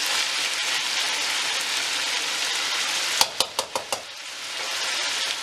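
Chicken frying in hot oil in a wok, sizzling steadily as onion paste is poured in and spread. About three seconds in comes a quick run of about five sharp utensil taps, and after them the sizzle briefly dips before picking up again.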